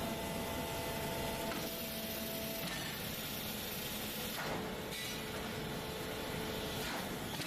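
Steady industrial machinery noise in a leaf spring factory, a dense mechanical din with faint steady hums that change pitch every second or two.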